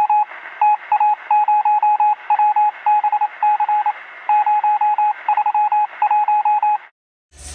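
Electronic beeping at one steady pitch, keyed on and off in a fast Morse-code-like pattern of short and longer beeps, with a thin, radio-like sound. It stops abruptly about seven seconds in.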